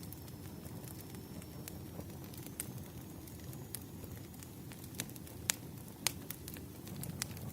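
Firewood burning, crackling with sharp irregular pops over a low steady rush of the fire. The loudest pop comes about five and a half seconds in.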